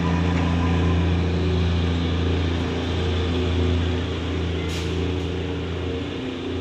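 Diesel locomotive engine running steadily with a deep, even hum. A short hiss comes about five seconds in.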